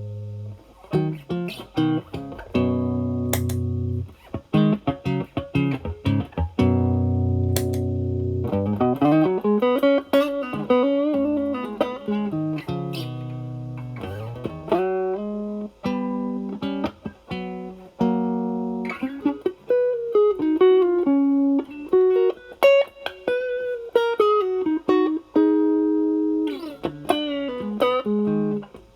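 Single-coil Fender Stratocaster electric guitar played through an Ibanez Tube Screamer Mini overdrive pedal, drive knob at zero, into the clean channel of a Marshall Valvestate amp. It rings out sustained chords for the first eight seconds or so, then plays single-note lead lines with string bends.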